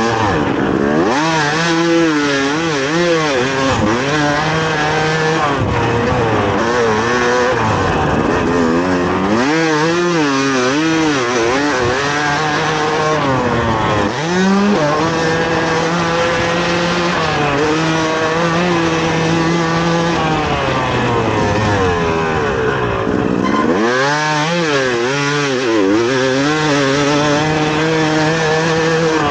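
Yamaha YZ250 two-stroke dirt bike engine on a motocross track, revving up and down over and over as it is ridden. Its pitch drops sharply and climbs again several times as the throttle is chopped and reopened, with a few longer stretches held at a steady pitch.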